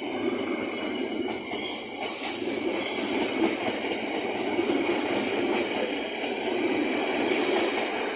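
Train running past on the rails: a steady rumble of wheels and cars with a high wheel squeal over it.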